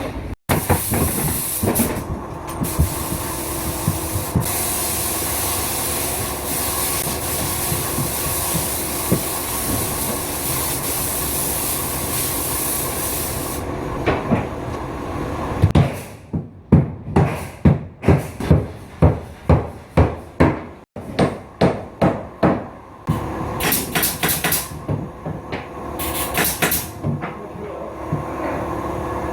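Carpentry work: a steady mechanical noise with a high hiss for the first half, then a run of sharp knocks about two a second, with scattered knocks near the end.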